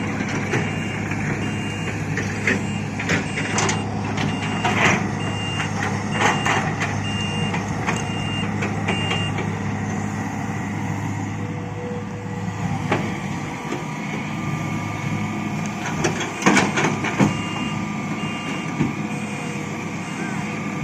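Heavy diesel engine of an excavator and dump truck running steadily while big rocks clatter and knock several times. A reversing alarm beeps repeatedly through the first half and again near the end.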